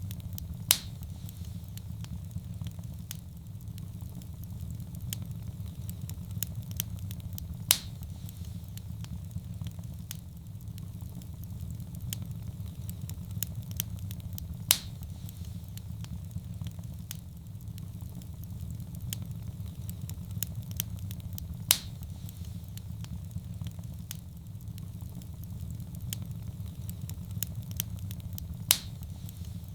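Wood fire in a fireplace crackling over a steady low roar, with small clicks throughout and a louder sharp pop about every seven seconds.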